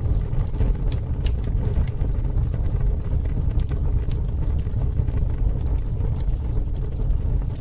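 Campfire burning: a steady low rumble under frequent sharp crackles and pops, coming in suddenly at the start.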